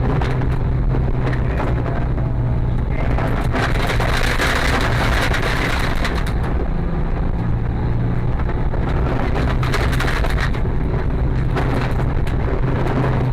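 Rally car engine running after the car has crashed off the stage into the trees, with cracking and snapping of wood and brush around it. A louder, rougher stretch of engine noise comes a few seconds in.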